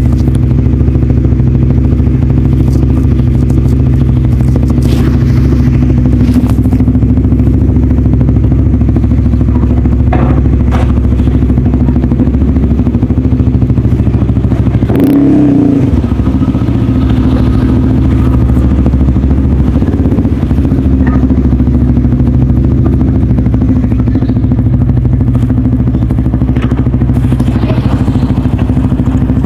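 Honda CBR150R's single-cylinder engine running at a steady speed through an aftermarket DST exhaust, with a brief change in its note about halfway through and a few light clicks.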